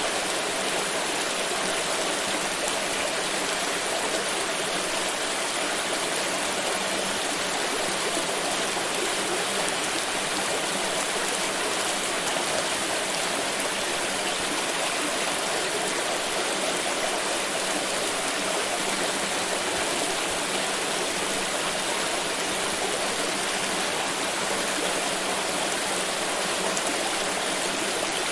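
Pouring water rushing and splashing in a steady, unbroken stream.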